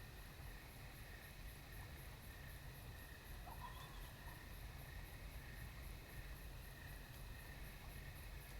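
Faint night meadow ambience: insects chirping, one very high pulsing about three times a second over a steady lower trill, with a low rumble underneath. A brief faint call sounds about three and a half seconds in.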